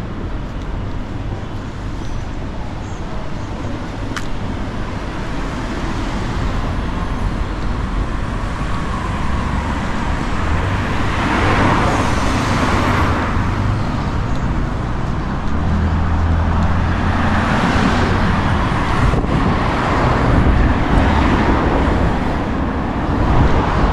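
Steady city street traffic: a continuous hum of car engines and tyres, with vehicles swelling past a few times, loudest about halfway through.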